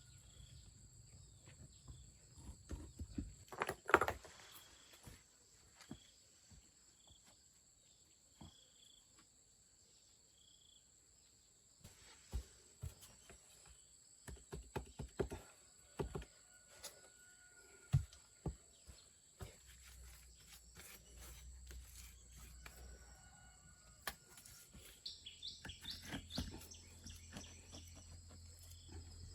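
Outdoor ambience of birds chirping and a steady high insect trill, broken by scattered knocks and clicks of handwork, the loudest about four seconds in.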